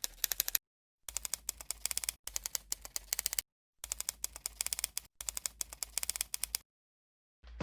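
Typewriter keys clacking in quick runs of several strikes a second, in five bursts of about a second each with dead silence between them, stopping near the end.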